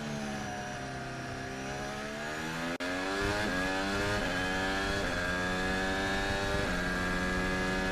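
Red Bull Honda Formula 1 car's 1.6-litre turbo V6 heard from the onboard camera: the engine note falls as the car slows, then climbs under acceleration with three upshifts in the second half.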